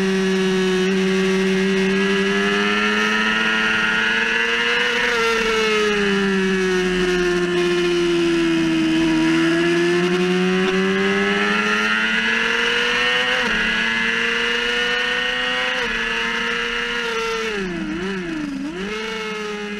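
2006 Yamaha YZF-R6's 600 cc inline-four engine running at high revs on track, heard onboard with wind rush. The pitch eases down and back up through the corners, and near the end it drops and rises quickly twice as the bike slows for a corner.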